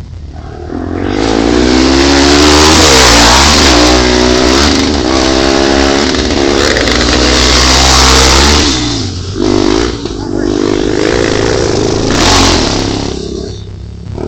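Off-road motorcycle engine revving hard, its pitch rising and falling again and again as it rides through the gears. It comes up loud about a second in and fades near the end.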